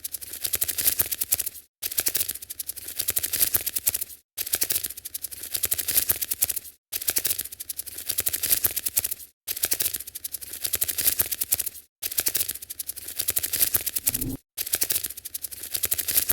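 A looped sound effect of fast, dense scratchy clicking, like small legs skittering, played in stretches of about two and a half seconds with a brief silent gap between each repeat.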